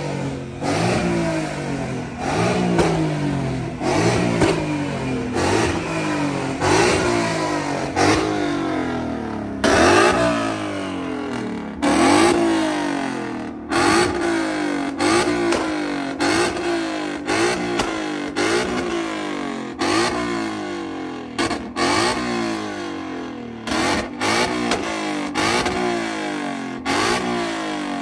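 A car engine revved over and over, each rev rising sharply in pitch and falling back, about once a second.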